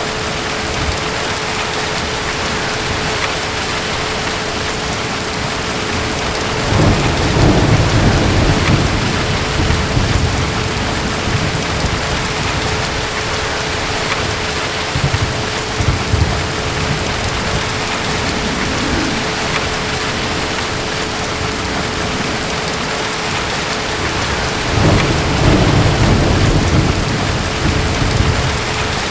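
Steady rain with distant thunder rolling low twice, about seven seconds in and again near the end.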